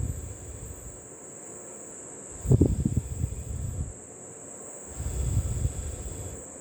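Steady high-pitched trill of crickets, broken twice by a loud low rumble lasting a second or more, about two and a half seconds in and again about five seconds in.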